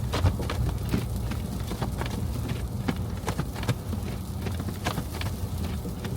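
Vehicle driving through snowy streets: a steady low road rumble with irregular sharp clicks and knocks.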